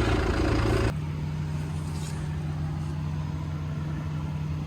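An engine running steadily, cut off abruptly about a second in and followed by a quieter, steady low hum.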